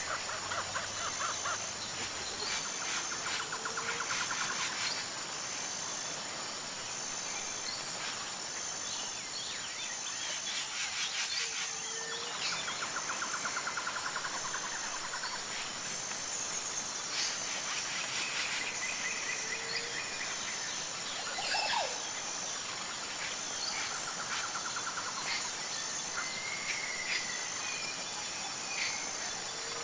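Tropical forest ambience: a steady, high, pulsing insect chorus throughout, with short buzzing trills that recur every several seconds and scattered bird chirps and calls.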